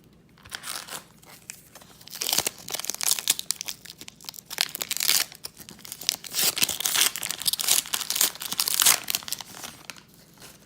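Wrapper of a retail trading card pack being torn open and crinkled. Dense crackling starts about two seconds in and dies away near the end.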